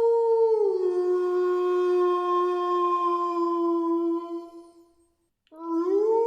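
Wolf howling: one long, drawn-out howl that drops a step in pitch about half a second in, then fades out. After a short silence a second howl starts, rising in pitch, near the end.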